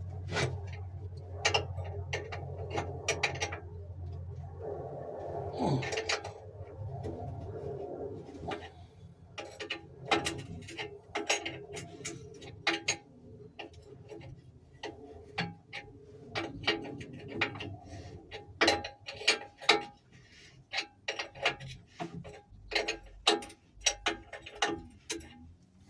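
Irregular clicks and light metallic taps from hand tools working the engine mount nuts and adjusting screws, often in quick runs. A low hum sits underneath for the first several seconds, then fades.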